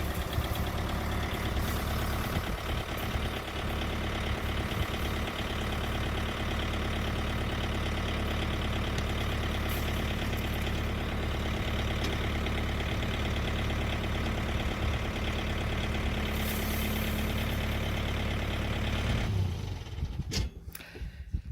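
An engine idling steadily, running at an even speed until it stops abruptly near the end, followed by a few scattered knocks.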